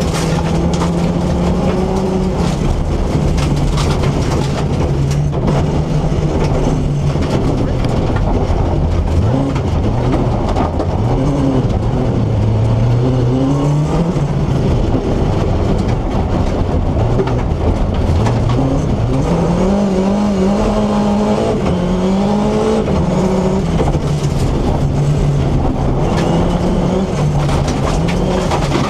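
BMW E30 rally car's S14B25 2.5-litre four-cylinder engine running hard, its revs climbing and dropping again and again as through gear changes.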